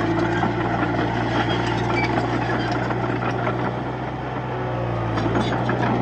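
Komatsu D31P bulldozer's diesel engine running steadily under a low, even hum, with scattered metallic clanks. It eases slightly about four seconds in, then picks up again.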